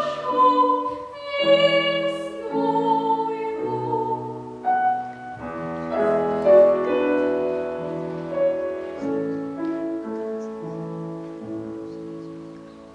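A child soloist singing in classical style with piano accompaniment. The voice ends about five seconds in, and the piano plays closing chords that fade away.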